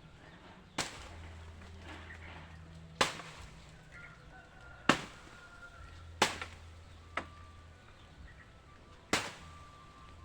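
Six sharp knocking blows, one to two seconds apart, the middle three the loudest: striking blows of demolition work as an old chicken coop is knocked apart.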